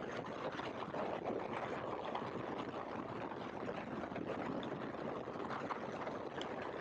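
Steady, even rushing noise of a Great Lakes open-cockpit biplane in flight: wind and engine blended, with no clear engine note standing out.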